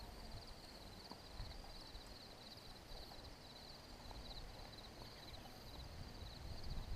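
Faint insects chirping outdoors in a steady, fast-pulsing high trill, with a low rumble underneath that grows louder near the end.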